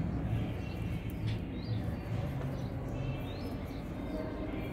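A steady low background rumble, with a few faint short rising bird chirps about two and three seconds in.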